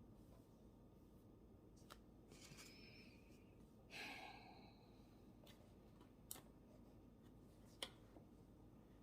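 Near silence: quiet room tone with a few faint sharp clicks and two brief rustles, the louder one about four seconds in.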